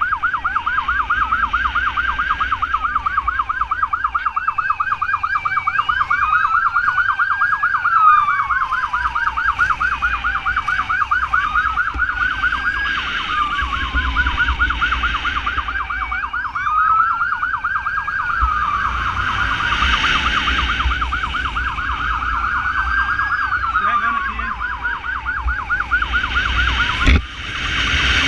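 Ambulance motorcycle siren sounding while riding to an emergency call: a fast warble layered with a slower wail that rises and falls about every five seconds, over engine and wind rumble. Near the end it cuts off with a click.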